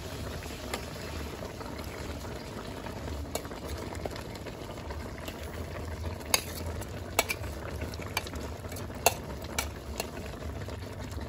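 Fish cooking in a pan of hot oil and sauce, a steady sizzle and bubble, with several sharp clicks of a utensil against the pan as it is stirred.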